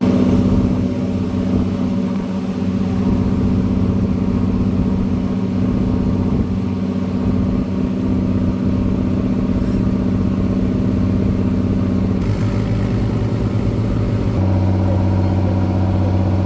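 An engine running steadily, its note shifting about twelve seconds in and again a couple of seconds later.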